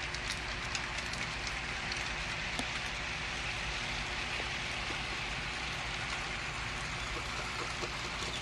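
HO scale model freight train rolling over the track: a steady hiss of many small wheels on the rails, dotted with light clicks at rail joints. It fades just at the end.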